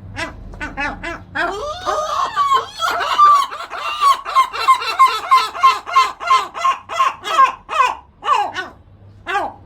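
Two gulls calling together in a long, rapid series of loud cries, about three a second, their calls overlapping at first and thinning to a few separate cries near the end.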